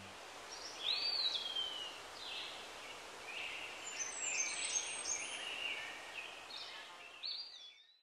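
Faint birdsong over a steady outdoor hiss: several short chirps and whistles, one rising and falling about a second in, fading out at the end.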